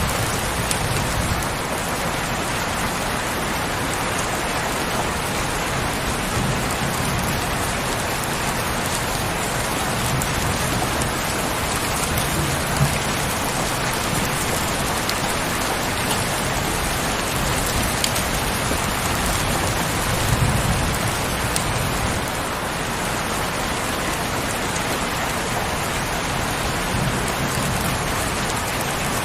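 Steady heavy rain, an even dense patter, with a few brief low swells every several seconds and a couple of sharper single drops.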